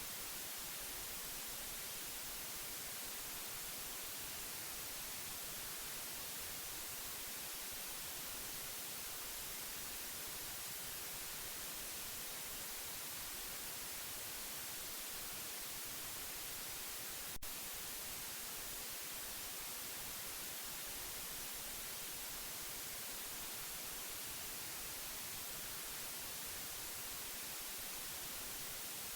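Steady white noise: an even, unbroken hiss, strongest in the highs, with a single brief click a little past halfway.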